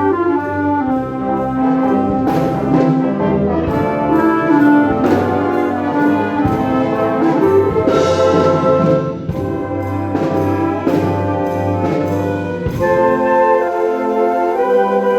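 A concert wind band playing sustained, changing chords with the brass prominent. The low bass notes drop out about thirteen seconds in.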